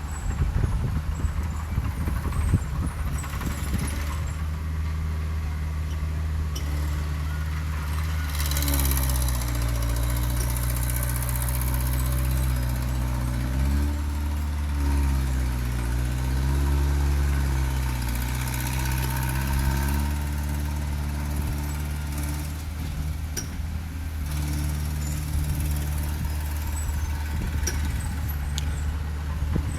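Heavy diesel engine of earthmoving machinery running, its engine speed rising and falling several times partway through, with irregular knocking in the first few seconds.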